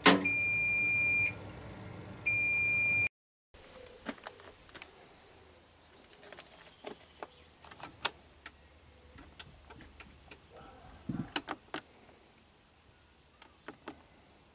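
Bosch household appliance's electronic signal beeping twice, two steady high-pitched tones of about a second each, just after a click. Afterwards only faint scattered clicks and light knocks.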